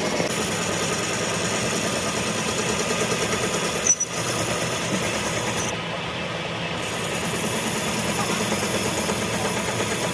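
An engine running steadily at idle, with a brief sharp click and dip about four seconds in.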